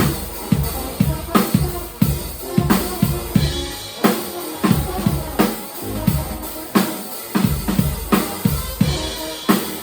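Live band playing: a drum kit keeps a steady driving beat of bass drum and snare hits over a low bass line.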